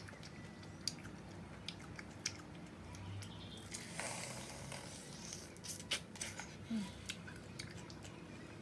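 Sparse wet clicks and smacks of a person biting and chewing juicy pineapple flesh, with a longer crunching bite about four seconds in.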